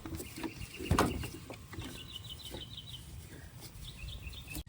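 A bird's quick chattering call, a run of about eight to ten short high notes about two seconds in, over faint background noise. A single knock sounds about a second in.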